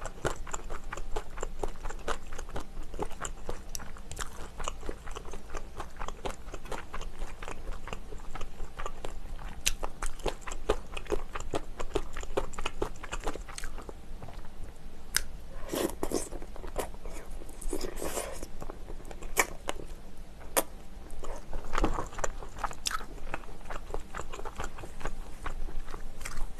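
A person chewing and biting spicy braised chicken, with many small crunchy clicks. A few louder, wetter bites come around the middle and again near the end.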